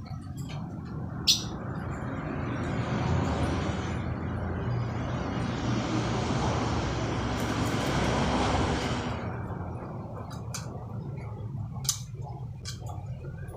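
A road vehicle passes: a rushing noise swells over a few seconds and fades away, over a steady low hum. A few short, sharp chirps, likely from the sparrow, come about a second in and again near the end.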